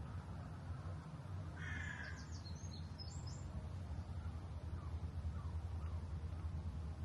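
A bird calls briefly, about two seconds in, over a steady low background rumble.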